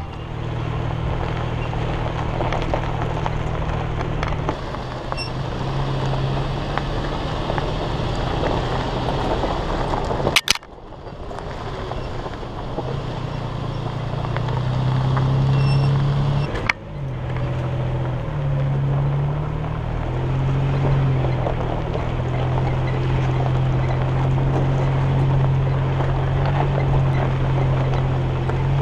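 Nissan Xterra's V6 engine running at low revs as the truck crawls up a steep gravel trail, its pitch stepping up and down a few times, over a steady rushing noise of wind and tyres. Two brief sharp clicks, about 10 and 17 seconds in.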